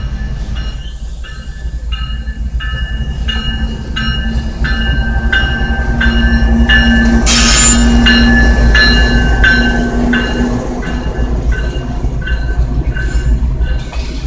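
Kansas City Southern de México train passing, with a steady low rumble and an engine hum that swells to its loudest around the middle. Short ringing tones repeat evenly about one and a half times a second, and a brief hiss comes about halfway through.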